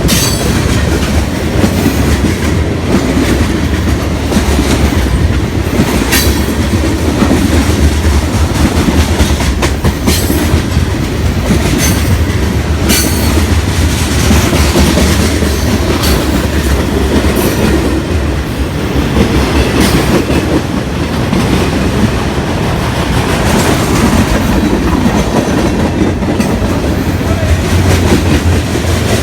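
Train rolling past close by: a steady rumble of railcar wheels on the rails, with irregular sharp clicks and clacks over rail joints.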